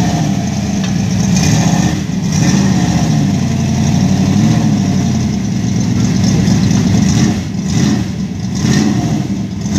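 1972 Dodge Demon's 340 small-block V8 running at a lumpy idle through its exhaust, with a short rev about four seconds in and another near the end.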